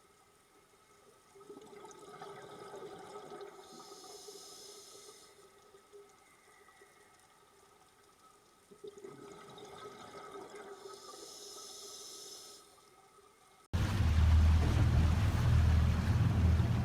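Two similar watery sounds, each lasting about four seconds, with a quiet gap between them. About three-quarters of the way through, the sound cuts abruptly to loud wind buffeting the microphone over the low drone of a boat.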